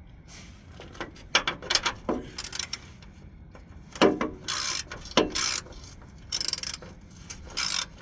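Hand ratchet wrench clicking in short bursts of strokes, several times over, as a bolt is run down.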